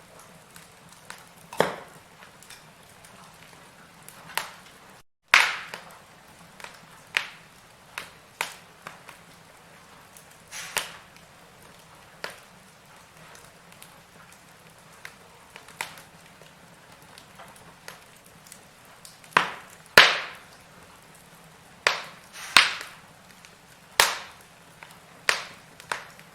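Firewood burning in a fireplace, crackling with sharp pops at irregular intervals over a faint steady hiss. The pops come more often and louder in the second half. The sound drops out completely for a moment about five seconds in.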